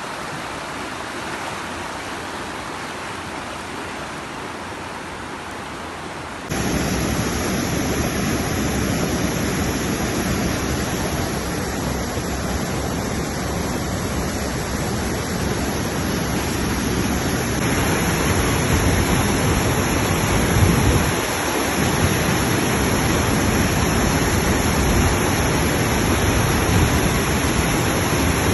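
Steady rush of rain-fed floodwater. About six and a half seconds in it jumps suddenly louder and deeper, and it changes character again near eighteen seconds.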